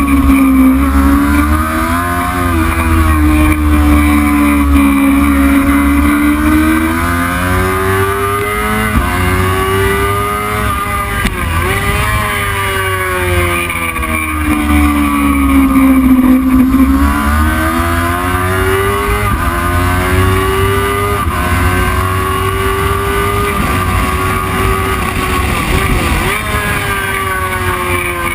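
Heavyweight racing motorcycle engine at full race pace, its pitch climbing under throttle and dropping sharply at each gear change several times, falling and rising again through corners. A steady low wind rumble on the microphone lies underneath.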